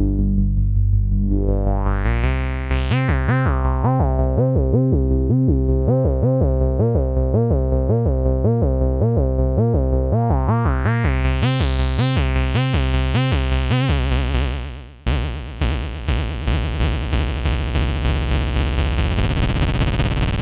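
Behringer K-2 analog monophonic synthesizer playing a bass tone, its filter sweeping darker and brighter, then a run of repeated bass notes about two a second as the filter opens up and closes again. About 15 seconds in the sound changes to a buzzier, noisier tone with fast pulsing.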